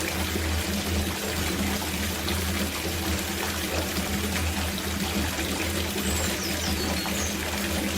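Water running from a tap into a copper bathtub as it fills: a steady, unbroken pouring with a low hum underneath.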